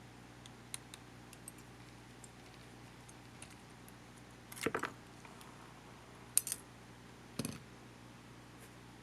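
Light clicks and taps of small parts being handled while working on a camcorder: a few faint ticks, a quick run of clicks about halfway through, a sharp click a second and a half later, and a duller knock soon after.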